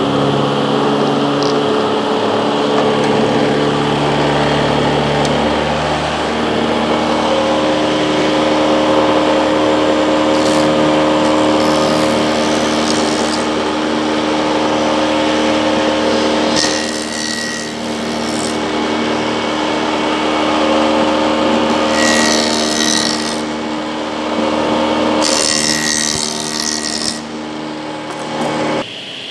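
A woodworking machine's electric motor running steadily, with four stretches of a few seconds each where it cuts into wood and a harsh hiss joins the motor's hum. The motor sound stops abruptly just before the end.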